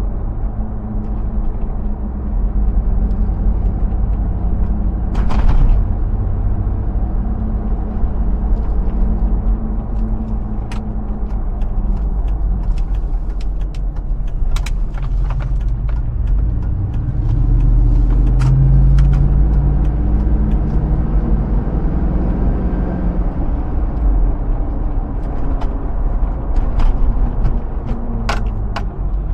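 2005 Hummer H2's 6.0-litre V8 running under way with a heavy low rumble. Its engine note rises through the middle and then eases back. Scattered sharp clicks are heard.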